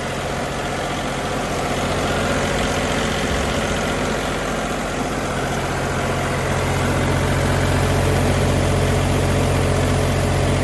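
Engine of a 2020 Atlas Copco CPS185 towable air compressor running steadily, growing louder about six seconds in.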